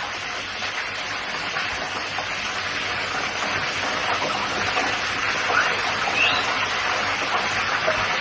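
Fish frying in hot oil: a steady sizzle that grows slightly louder.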